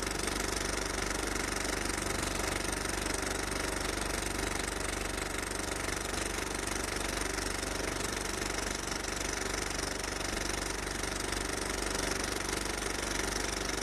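Steady, rapid mechanical rattling of a running film projector, with an even hiss over it.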